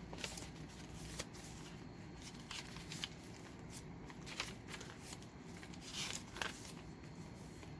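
Paper and card pages of a handmade journal rustling and tapping as they are turned and handled, in scattered soft clicks.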